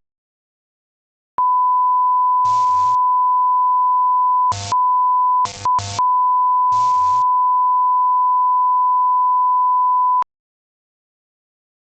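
Electronic beep tone: one steady high pure tone, near 1 kHz, starting about a second and a half in and cut off sharply about nine seconds later. It is interrupted by five brief snatches of other sound.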